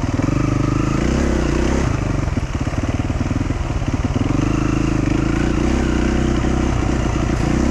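Dual sport motorcycle engine running on a dirt trail, the engine note dropping and rising again a few times as the throttle is eased off and reopened.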